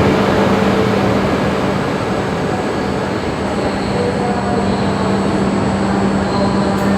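Shinkansen train moving along the station platform: a steady rumble of wheels and running noise with a low steady hum under it.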